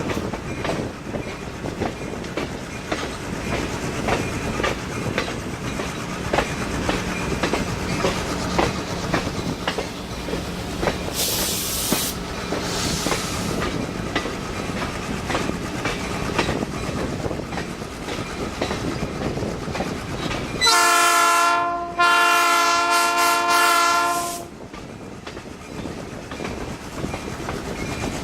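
Passenger train rolling along the rails with a steady clickety-clack of wheels over rail joints and a brief hiss partway through. About two-thirds of the way in, the locomotive horn sounds two blasts, a short one followed by a longer one.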